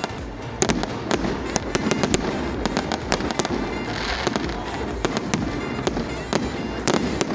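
Fireworks going off in quick succession: many sharp bangs and cracks at uneven intervals over a continuous noisy rumble, with a brief hiss about four seconds in.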